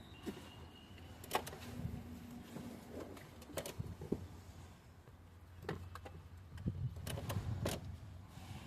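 Scattered light clicks and knocks, a few seconds apart, over a faint steady low hum.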